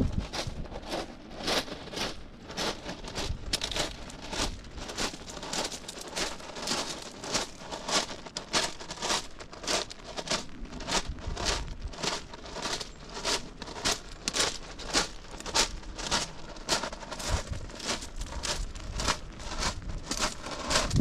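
Footsteps on wet pavement at a steady walking pace, about two steps a second, with a crackly rustle between the steps.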